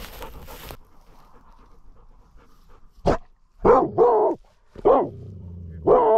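Labrador retriever barking a string of about five short barks at an approaching stranger, picked up by a camera strapped to the dog itself, so the barks are very close and loud. A brief rustle comes right at the start.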